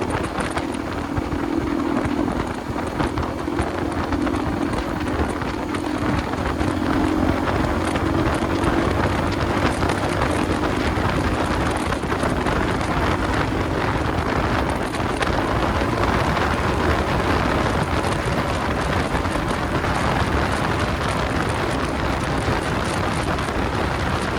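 Motorcycle riding in traffic: wind buffets the microphone over steady engine and road noise, with an engine hum that holds through the first half and then fades.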